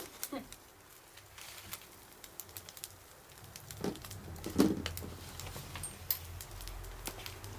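Wood campfire crackling, with scattered sharp pops and spits. A few short, low sounds come about four seconds in, the loudest a little after.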